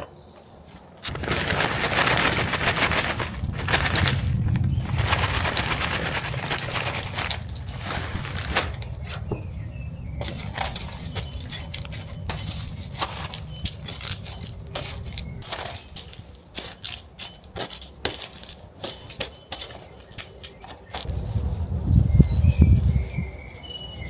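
Repotting plants: a sudden rush of noise for several seconds, then many small clicks, clinks and rustles as pots and soil are handled, with a short low rumble near the end.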